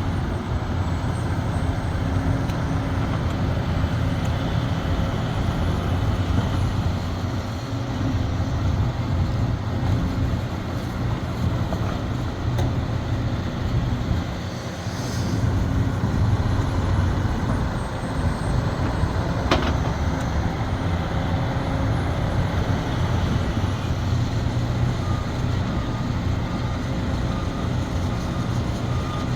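Sumitomo SH370LHD-6 excavator's diesel engine working under load, rising and falling. There is a single sharp knock about two-thirds through, and a reversing alarm starts beeping near the end.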